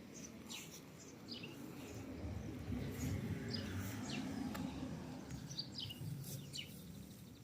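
Small birds chirping outdoors: short, high, falling chirps about once a second, over a low steady rumble.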